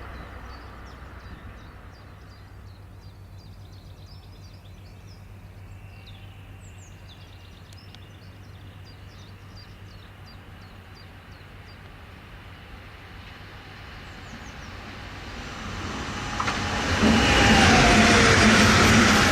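A train approaching and passing close by on the track: quiet at first, it swells from about fifteen seconds in to a loud rush of wheels on rail, with a few tones sliding in pitch as it goes by. Faint high chirps sound in the quieter part before it.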